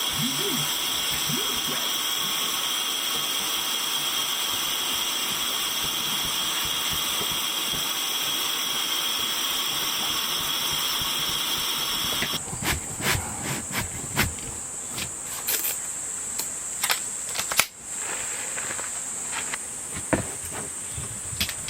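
A small motor runs with a steady high whine and hiss, then cuts off suddenly about twelve seconds in; scattered knocks and clatter follow.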